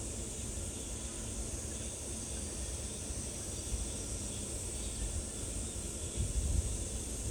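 Steady outdoor background: an even high hiss with a low rumble of wind on the microphone that gusts near the end. No clear bird call stands out.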